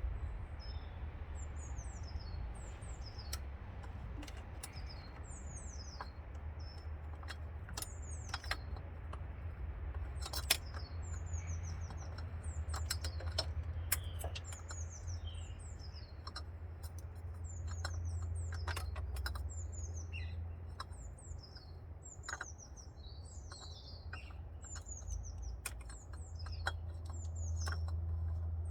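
Small birds chirping again and again, short high chirps that slide downward, with scattered sharp clicks and a steady low rumble underneath.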